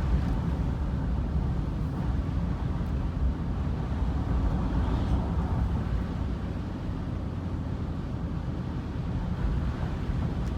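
Steady low rumble of a vehicle's engine and road noise while it is driven.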